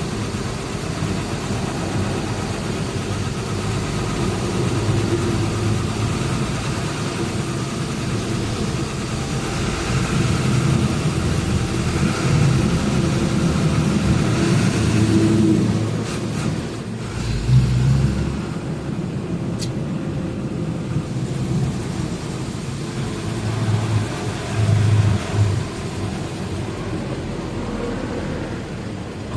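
Truck engine running on the road, building up from about ten seconds in and easing off near sixteen seconds, with a few low heavy bumps after that, the loudest about a second later.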